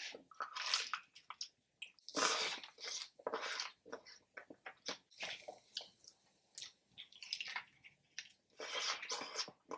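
Close-up chewing and biting of crispy fried chicken, in irregular bursts, with a loud bite about two seconds in.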